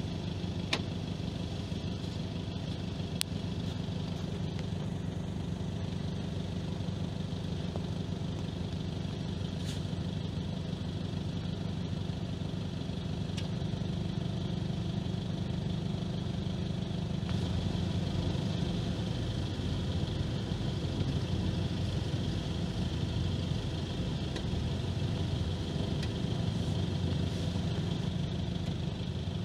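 Vehicle engine idling steadily, a low hum with a few faint clicks. The low hum shifts a little past the halfway mark.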